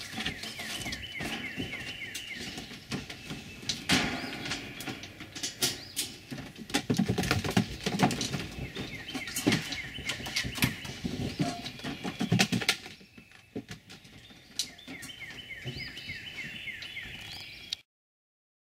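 A songbird singing runs of quick falling chirps, several times over, against irregular knocks, rattles and thuds from black bear cubs clambering about a wire-mesh pen with wooden perches. The sound cuts off near the end.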